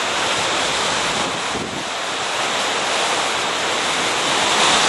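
Hurricane wind blowing hard and buffeting the microphone, a steady loud rush that swells slightly near the end.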